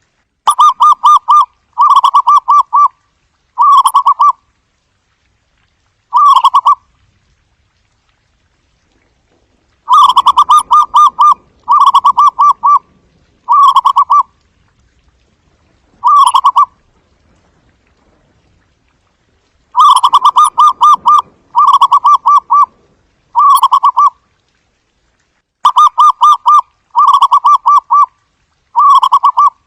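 Zebra dove giving its soft staccato cooing call: short trilled coos of rapid pulses, each about a second long, repeated in bouts with pauses of a few seconds between.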